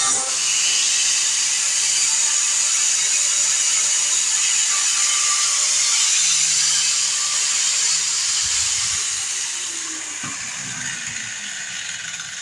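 Angle grinder running against sheet-metal welds with a steady harsh hiss, then dropping in pitch as it winds down about nine seconds in.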